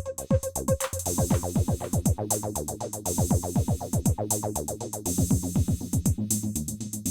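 Roland T-8 drum machine and bass synth playing an electronic pattern: repeated kick drums falling in pitch over a pulsing bass line. About a second in the pattern changes, as a hissy hi-hat and cymbal layer enters.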